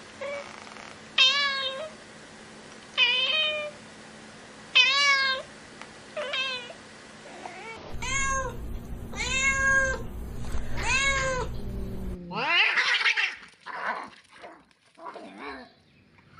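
Domestic cat meowing over and over, each meow a short call that rises and falls, about two seconds apart. After about twelve seconds come a few harsher, noisier cries.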